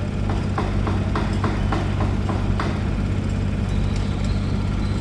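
A steady engine running at idle, with a run of about nine short, sharp taps in the first few seconds.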